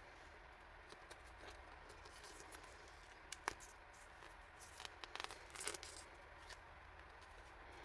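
Faint handling of packaging during an unboxing: a couple of sharp taps about three and a half seconds in, then a brief patch of crinkling rustles, as of a plastic bag or paper wrapping, a little past the middle.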